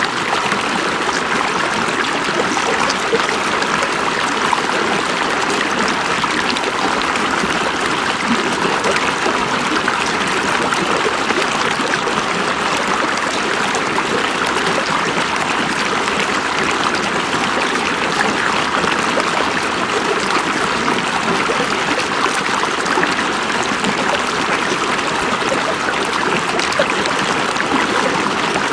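River water flowing over rocks, a steady rushing and trickling.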